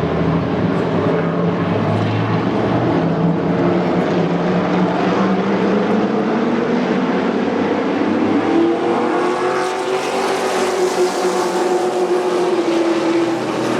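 Race truck engines running hard on a speedway. One engine's pitch climbs steadily for several seconds midway as it accelerates, then holds high.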